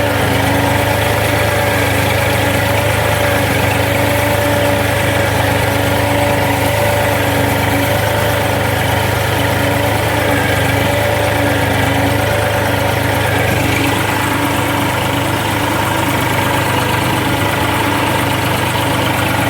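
Diesel engine of an Eicher 485 tractor running steadily at a low, even speed, dropping slightly in loudness about two-thirds of the way through.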